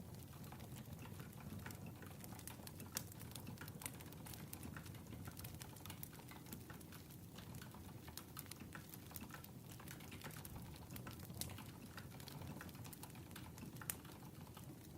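Crackling wood fire: a steady low rumble with many irregular sharp pops and crackles.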